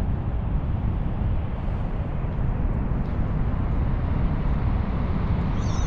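Steady low roar of rushing water from the Niagara River rapids and falls, with a brief high chirp near the end.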